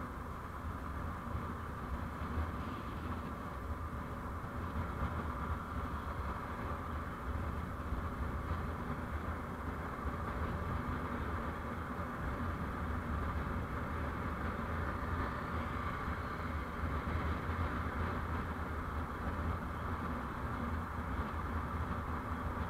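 Steady engine and road noise of a moving vehicle: a constant low rumble with a hum above it.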